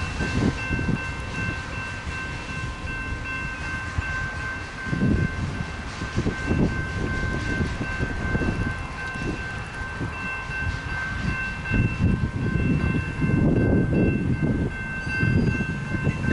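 Freight train of empty autorack cars rolling past, an uneven low rumble with wheel-and-rail clatter and rattling. Over it runs a steady high ringing made of several tones, which cuts off near the end.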